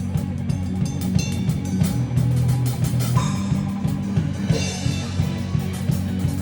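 Rock band playing: a drum kit keeping a steady beat of hits and cymbals over guitar and a sustained bass line.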